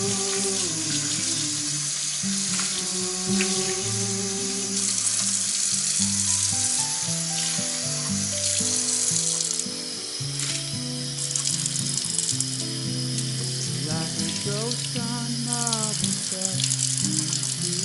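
Water running from a kitchen tap into a sink, a steady hiss that drops away briefly about ten seconds in, under instrumental background music.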